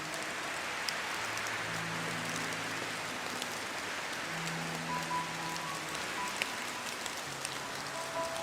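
Steady rain hissing, with scattered sharp drop ticks, over soft background music that holds long low notes.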